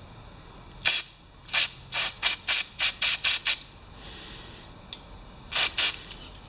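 Aerosol cleaner sprayed in short bursts through the passages of a Tecumseh carburetor's bowl nut: about ten quick hisses in the first few seconds, then two more near the end.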